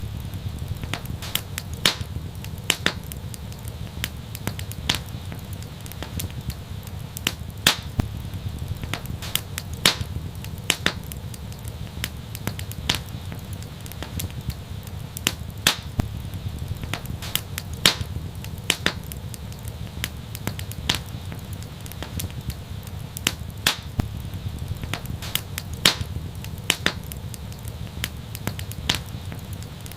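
Fire in a fireplace crackling: sharp, irregular pops, a few each second, some louder than others, over a steady low rumble.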